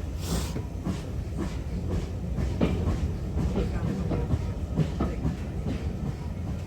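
Steam-hauled train running along the line: a steady rumble with irregular clicks as the wheels pass over rail joints.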